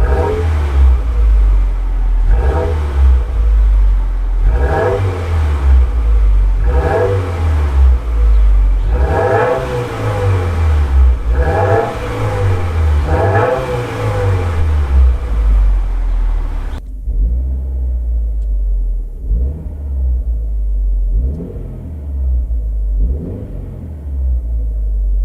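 Subaru WRX boxer engine through its stock exhaust, revved in short blips about every two seconds, each rising and falling back to idle. About two-thirds of the way through the sound cuts abruptly to a duller, more muffled take with a few more revs.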